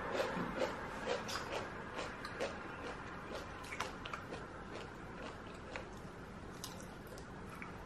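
Someone chewing a strip of crisp fried bacon: a run of small, sharp crunches and mouth clicks that come thick at first and thin out in the second half.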